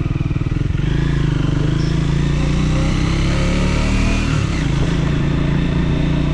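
Triumph Speed 400's single-cylinder engine running under load on a climb, its note rising about a second in and dropping about four seconds in, as with a throttle change or gearshift.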